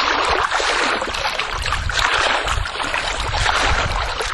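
Water in a backyard swimming pool sloshing and swishing as a person wades through it, with surges at each step.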